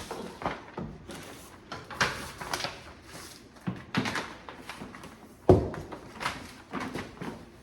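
A string of irregular knocks, bumps and short scraping sounds, like objects being handled and set down, with the loudest thump about five and a half seconds in.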